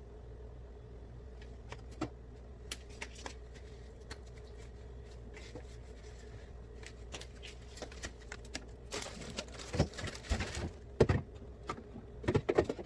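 Scattered light clicks and knocks of items being handled during fridge cleaning, over a steady low hum. A short scrubbing or rustling stretch comes about nine seconds in, and heavier clattering knocks near the end.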